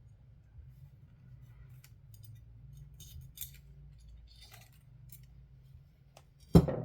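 Scattered light clicks and short scrapes from small tools and parts being handled while a radio transceiver is taken apart, over a low steady hum, ending in one loud knock near the end.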